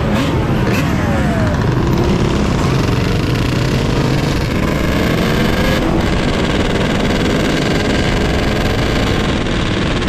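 Steady, loud riding noise from an electric dirt bike on the move: wind on the microphone with vehicle noise around it, and a few short rising and falling whines.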